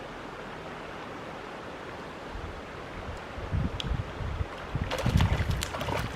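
Steady rush of river water, joined from about two seconds in by irregular low buffeting and splashy crackles that grow busier toward the end.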